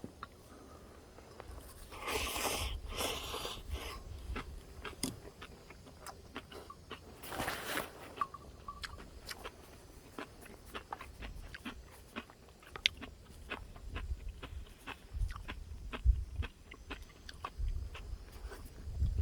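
A person eating close to the microphone, biting and chewing. There are two longer, noisy bursts, about two seconds in and again at about seven and a half seconds, followed by many small clicks and smacks of chewing.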